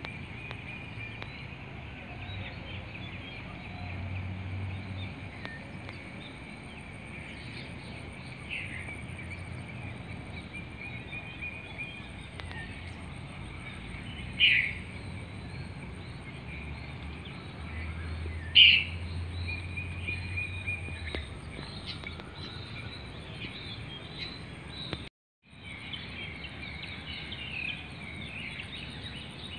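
Outdoor chorus of birds chirping over a steady background of high calls, with two loud, sharp bird calls partway through. The sound cuts out for a moment near the end.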